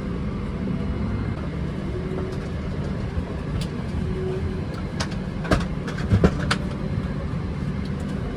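Steady low rumble inside a vehicle cabin, with a cluster of sharp clicks and knocks about five to six and a half seconds in.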